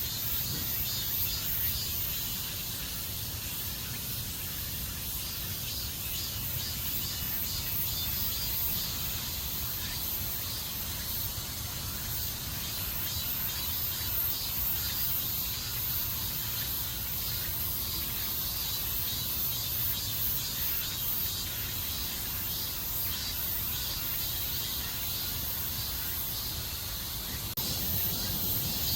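Insects shrilling steadily in a high-pitched chorus, over a low rumble that grows slightly louder near the end.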